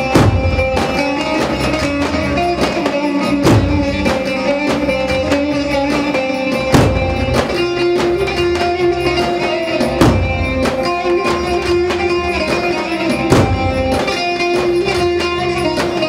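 Wedding band playing a slow misfir folk dance tune: a sustained melody over quick, steady percussion, with a heavy low drum beat about every three and a half seconds.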